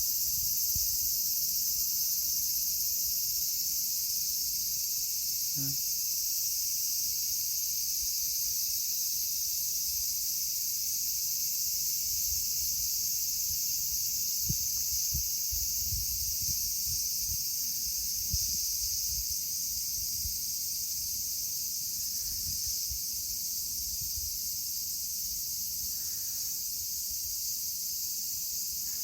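Steady, high-pitched chorus of insects shrilling without pause, with gusts of wind rumbling on the microphone.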